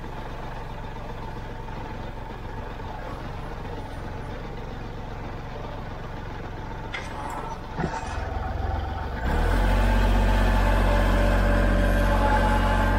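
Kubota L3901 tractor's diesel engine running steadily, with a couple of brief knocks, then throttled up to a louder, steady run from about nine seconds in.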